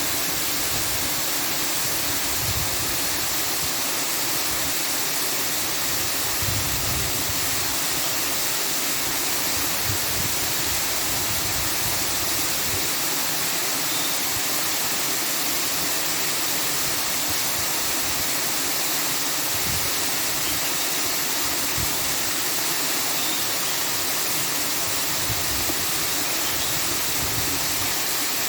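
Steady, even rushing noise, like falling water or a white-noise track, with faint irregular low rumbles underneath.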